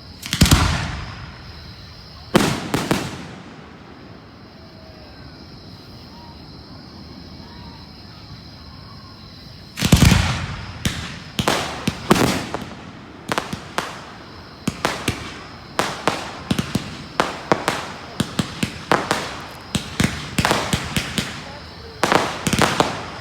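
Fireworks going off: two loud booms about two seconds apart, a lull of several seconds, then another big boom followed by a rapid string of bangs and crackles, several a second.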